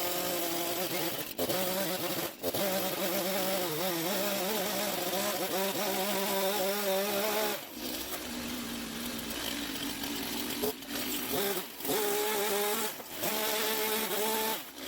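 Stihl MS170 two-stroke chainsaw engine running at high revs through a muffler whose outlet has been opened up for more exhaust flow. The pitch wavers, and the revs drop off briefly several times before picking up again.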